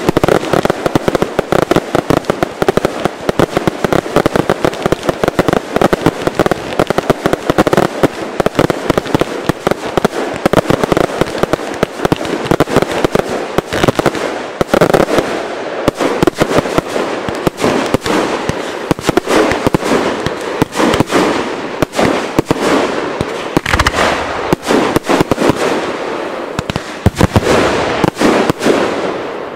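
Aerial fireworks barrage: a dense, continuous rattle of shell bursts and crackling effects going off in quick succession, dying away right at the end.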